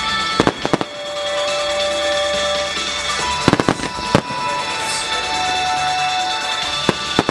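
Aerial firework shells bursting with sharp bangs in three clusters: about half a second in, around three and a half to four seconds in, and just before the end. Background music with held tones plays under the bangs.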